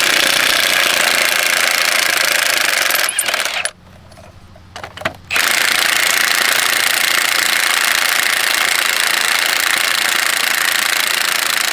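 A hand-held power tool hammering rapidly in two long runs, with a pause of about a second and a half a little before halfway.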